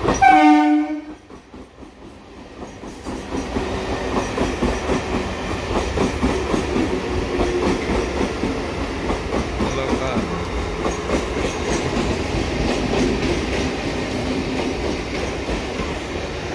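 Electric suburban train (EMU) sounds its horn once, a loud blast about a second long at the start. It then rolls along the track with a steady rumble and wheels clattering over the rail joints.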